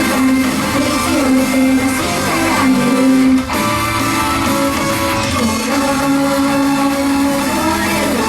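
Idol-pop song played loud through a live-house PA, with electric guitar and female singing over the backing track; the music drops out for a split second about three and a half seconds in.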